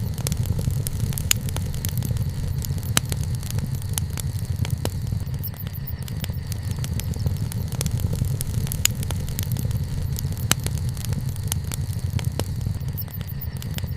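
Wood fire burning, with frequent sharp crackles and pops from the burning wood over a steady low rumble.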